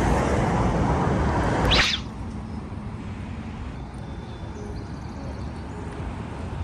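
Outdoor background noise with a steady low rumble, like passing traffic, that drops off suddenly about two seconds in after a brief rising sweep. What is left is quieter ambience with a few faint short high tones.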